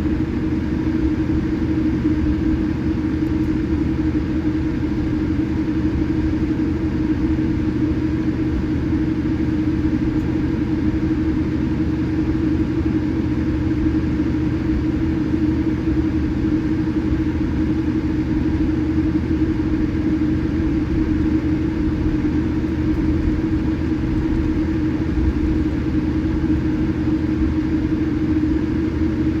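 Steady cabin noise inside a Boeing 787-8 on the ground before takeoff: the engines at idle and the air system give a constant hum over a low rumble, with no rise in thrust.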